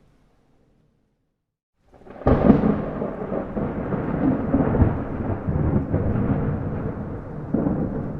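About two seconds of dead silence, then a rolling rumble of thunder over heavy rain cuts in abruptly and goes on loud, swelling and easing.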